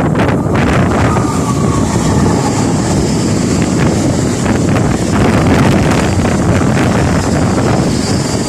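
A train passing close at speed: a steady loud rumble and rush with rapid clattering, and wind buffeting the microphone.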